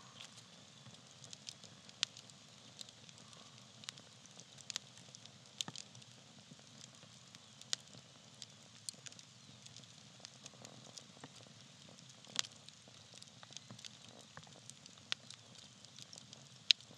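Small bark-fed campfire crackling: sharp irregular pops and snaps, a few a second, over a faint steady hiss of burning, with louder pops about two seconds in, about twelve seconds in and near the end.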